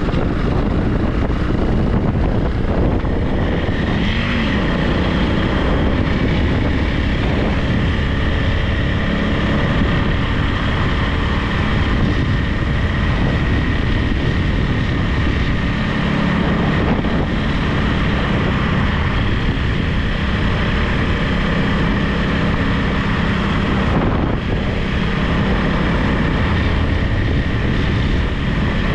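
Honda CRF300 Rally's single-cylinder engine running steadily under way, a continuous engine drone with only small shifts in pitch.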